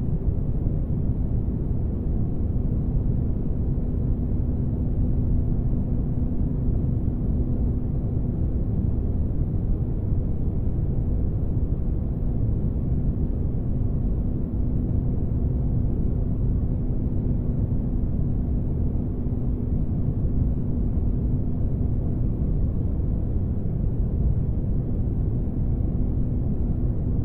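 Spaceship ambience noise: a steady deep rumble with a faint low hum running through it, unchanging in level.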